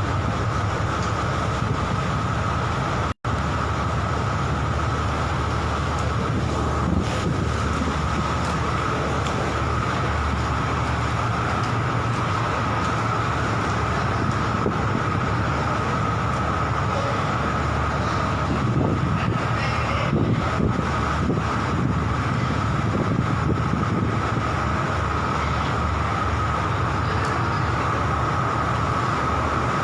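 Ship's engine running with a steady low drone and a constant high whine, under a rushing noise. The sound cuts out for an instant about three seconds in.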